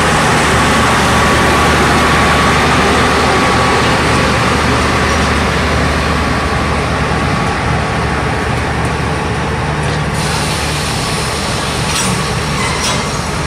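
Passenger coaches of a departing express train rolling past on the rails, with a steady loud rumble and rattle of wheels and running gear. A few sharp clicks near the end as the wheels cross rail joints.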